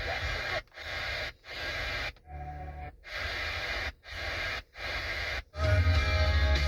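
2014 Chevy Cruze LTZ's car radio being switched through stations: seven short snatches of sound, each cut off by a brief silence, then guitar music with heavy bass comes on about five and a half seconds in.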